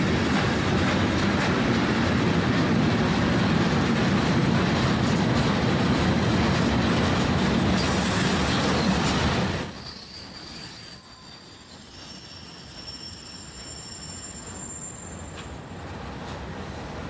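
Freight train wagons rolling past on steel rails with a loud, steady rumble that drops away sharply about ten seconds in. After that, high-pitched wheel squeal from slow-moving wagons takes over.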